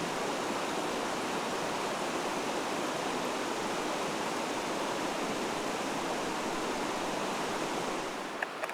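Mountain stream flowing steadily. The rush eases slightly near the end, and a couple of small clicks sound there.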